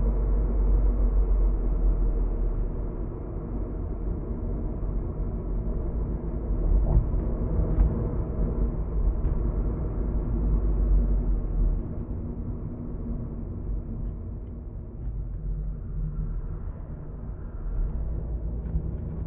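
Road and engine noise heard inside a moving car's cabin: a steady low rumble with nothing high-pitched, swelling and easing a little as the car's speed changes.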